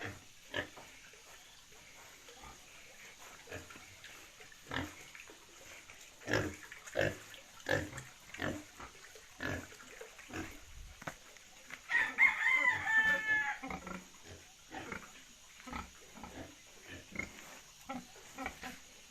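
Pigs grunting in short, separate grunts as they rest after feeding. About twelve seconds in, a rooster crows once for about a second and a half, the loudest sound.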